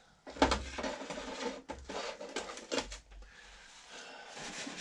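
Parts and tools being handled on a workbench: irregular clattering and scraping with several sharp knocks, then a rubbing noise near the end.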